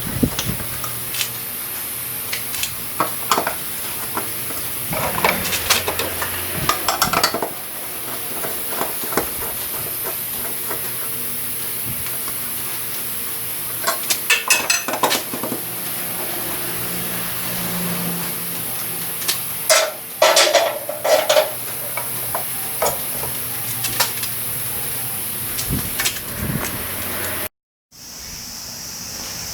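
Hand tools and metal parts clinking and knocking now and then, over a steady hiss; the sound drops out briefly near the end.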